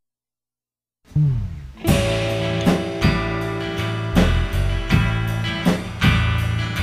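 Instrumental intro of a blues-rock song starting about a second in: a falling slide, then strummed guitar chords with sharp accents on a steady beat.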